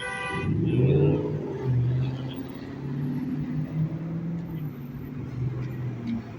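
A motor vehicle's engine running close by, rising in pitch about a second in as it pulls away, then holding steady. A brief high-pitched beep comes right at the start.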